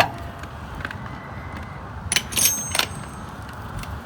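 Metal tools clinking as a socket is handled: a sharp clank at the start, then a quick cluster of ringing metallic clinks about two to three seconds in.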